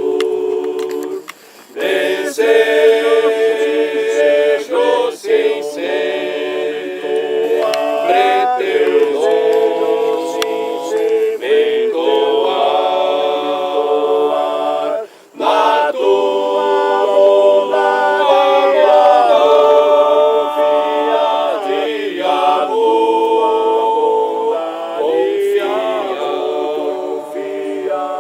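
A group of voices singing together unaccompanied, in long held phrases with brief pauses about a second and a half in and about fifteen seconds in.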